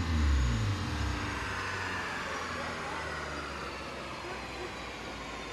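A car engine comes off a hard high-rev run, its revs falling away over the first second, then drops to a steady rushing noise with a faint thin whine gliding slowly down as things spin down.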